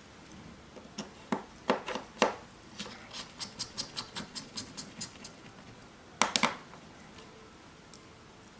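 Small hard clicks and taps of tools and parts being handled during a smartphone screen repair: a few sharp clicks, then a run of quick light ticks, then a louder cluster of clicks about six seconds in.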